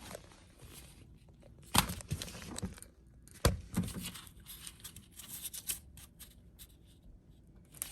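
Handling noises from work on the car: two sharp knocks, about two seconds and three and a half seconds in, among scattered lighter clicks and rustling.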